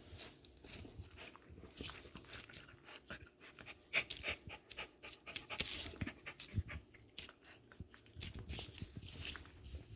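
A dog panting quietly, with small clicks and rustles mixed in.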